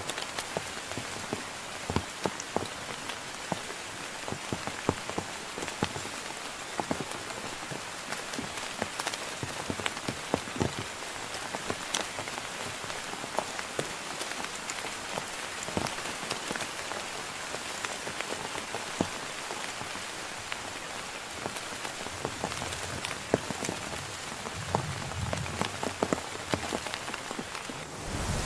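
Heavy rain falling steadily, with many sharp, separate drops striking a close surface. A low rumble comes in near the end.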